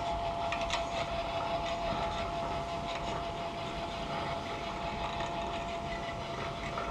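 A winch-driven cable ride in motion: a steady high whine from the running cable rig over an even rumbling rush, with a few light clicks.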